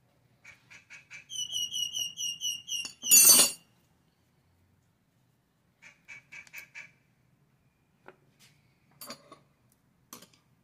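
A bird calling: short bursts of chatter, a quick run of about eight even, high chirps, then a loud harsh squawk, with a second burst of chatter about six seconds in. A few light clicks follow near the end.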